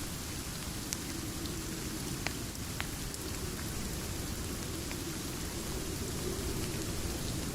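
Steady rain with a low rumble underneath, and a few sharp isolated crackles from a wood fire in a fireplace.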